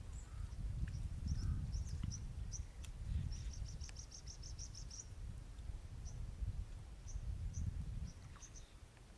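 Small birds chirping high and thin, with a quick run of about ten chirps near the middle, over a steady low rumble.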